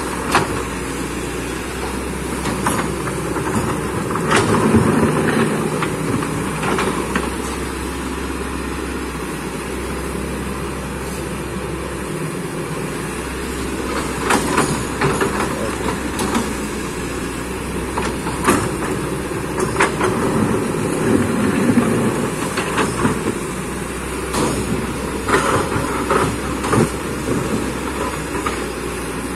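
Kobelco excavator's diesel engine running steadily under load, swelling twice as the machine works, with repeated sharp metal clanks and knocks throughout.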